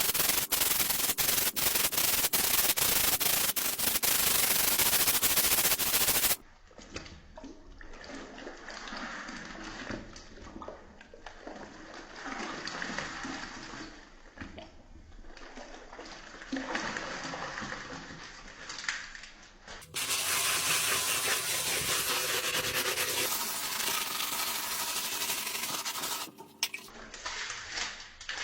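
Fast, dense scrubbing strokes for about six seconds, then a quieter stretch of uneven sloshing and splashing water. About two-thirds of the way in comes a loud, steady rush of running water lasting several seconds.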